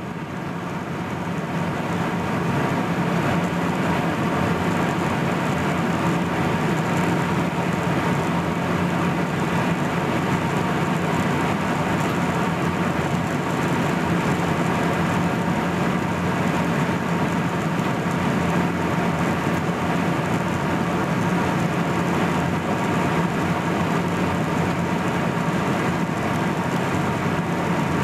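Cabin noise inside a Boeing 737-800 in flight: the steady rush of air and the hum of its CFM56 turbofan engines, with a steady low drone. It fades in over the first couple of seconds, then holds level.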